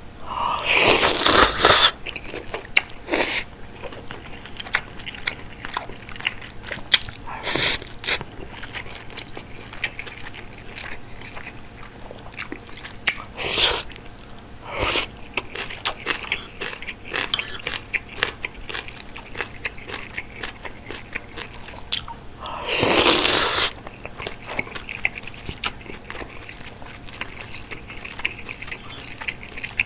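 Close-miked chewing and biting of bulgogi hot pot, with a steady run of small wet clicks. A few louder, longer bursts of noise break through, the biggest about a second in and again about two-thirds of the way through.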